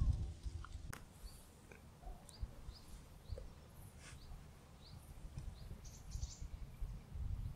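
Small birds giving short high chirps, scattered one at a time, over a low rumbling background; a single sharp click about a second in.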